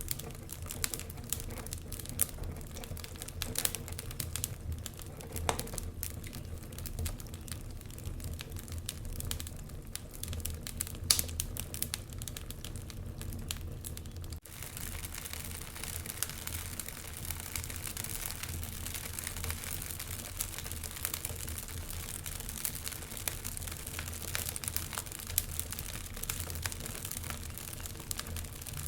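Wood fire burning in a fireplace, crackling with frequent sharp pops over a low steady hum, with a momentary dip about halfway through.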